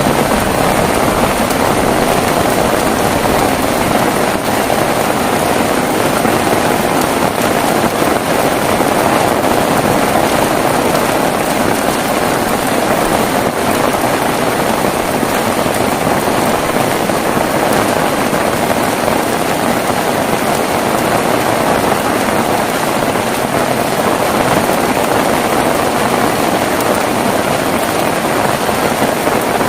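Heavy rain falling steadily, a dense, even rushing hiss with no thunder claps.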